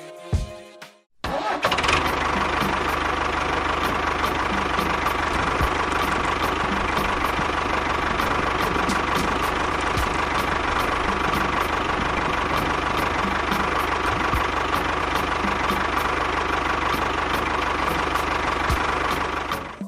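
Small engine starting about a second in and then running steadily, with a light tick about twice a second.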